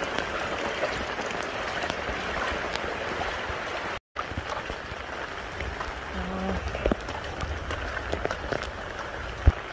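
Steady rain falling on floodwater, puddles and a wet concrete path, an even hiss with fine pattering drops. The sound drops out completely for an instant about four seconds in, and there is a dull thump near the end.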